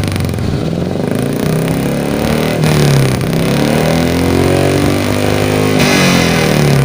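Carburetted Suzuki Futura engine revved twice through a new 4-3-1 header and HKS racing muffler, the pitch climbing and dropping back each time.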